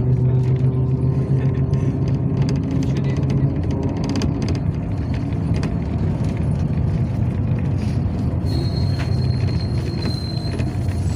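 Yutong ZK6118HGA city bus under way, heard from inside: a steady engine drone with frequent light rattles. The drone eases about three and a half seconds in, and a thin high whine joins it about eight seconds in.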